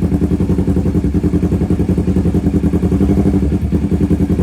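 Kawasaki Z650's parallel-twin engine idling steadily through an aftermarket full exhaust system, with a deep, evenly pulsing exhaust note.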